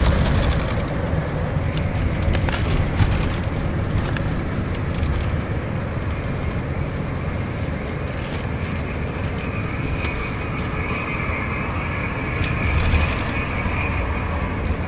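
Steady engine drone and road rumble of a Scania K410iB double-decker bus under way, with scattered light clicks and rattles.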